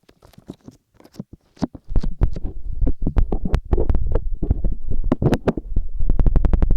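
Hands patting and rubbing on the microphone's ears in an ASMR ear massage, making rapid muffled thumps. The sound is sparse and soft at first, gets much louder about two seconds in, and settles into a fast, even patting of about seven or eight strokes a second near the end.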